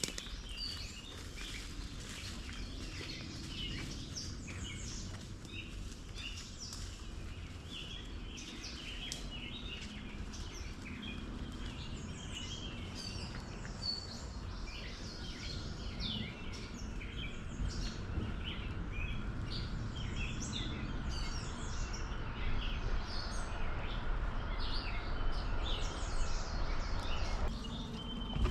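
Wild birds chirping and singing, many short calls overlapping throughout, over a steady low rumble of outdoor background noise.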